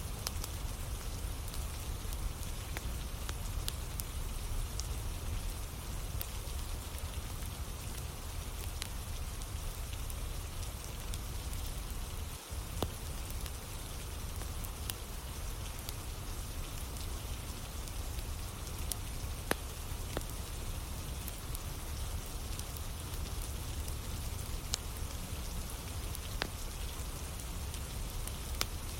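Steady rain together with a wood fire burning, with scattered sharp crackles and an occasional louder pop from the burning logs.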